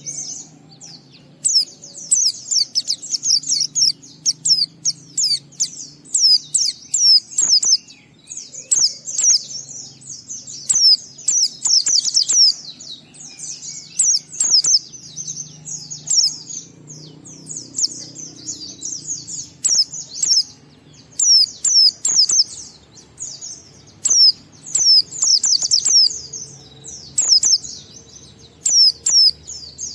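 A white-eye (pleci) singing in its long ngalas song: rapid runs of thin, high, downward-slurred notes in phrases of one to three seconds, broken by short pauses. A faint low hum lies underneath.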